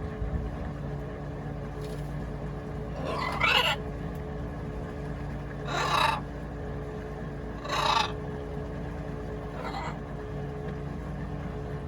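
Pet parrot squawking four times, short harsh calls a couple of seconds apart, the last one fainter, over a steady low hum.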